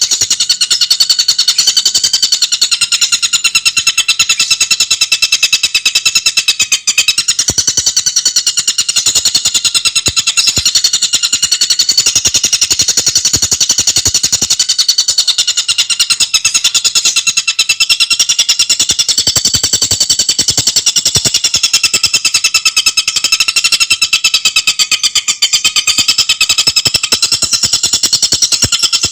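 Tengkek buto, a kingfisher kept as a songbird, calling in a continuous rapid chatter of fast-repeated high, ringing notes with no break.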